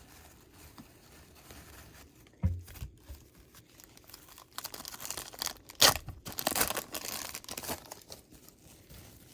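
A trading card pack wrapper is torn open and crinkles as it is handled. The tearing and rustling come in a cluster of bursts in the second half, after a soft thump about two and a half seconds in.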